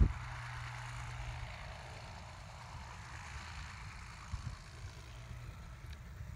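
Crop-duster helicopter running on the ground some distance off, a steady engine and rotor hum. There is one low thump right at the start.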